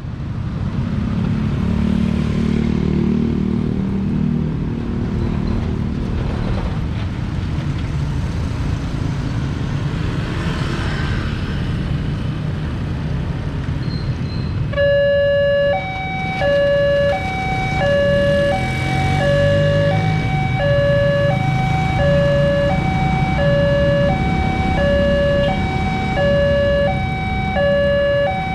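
Road traffic engines running. About halfway through, the level crossing's electronic warning alarm starts: an alternating two-tone signal repeating about once a second, the sign that a train is approaching and the barriers are closing.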